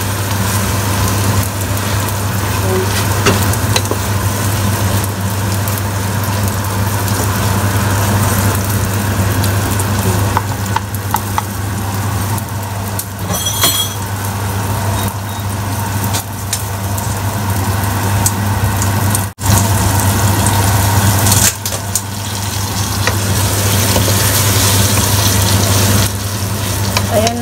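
Beaten egg and sliced bitter melon sizzling in a stainless pot while a wooden spoon stirs them, over a steady low hum. The sound drops out briefly about two-thirds of the way through.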